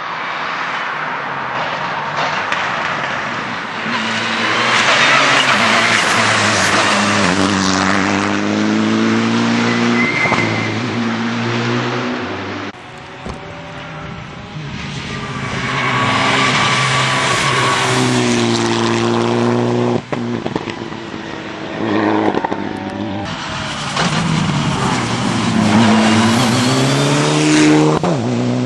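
Mitsubishi Lancer Evolution IX rally car's turbocharged four-cylinder engine at full race pace, the revs climbing repeatedly and dropping back through gear changes, with heavy tyre and road noise.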